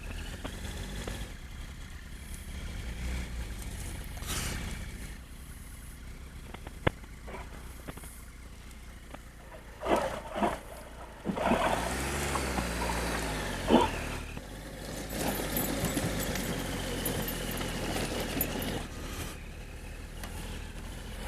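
Triumph Tiger 1200 motorcycle's three-cylinder engine running on the move, with wind noise. The engine note rises and falls about halfway through, and there are a few sharp clicks.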